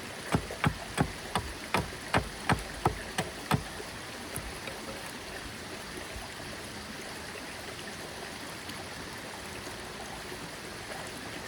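Small mountain stream flowing steadily. A run of about ten sharp knocks, roughly three a second, stops about three and a half seconds in.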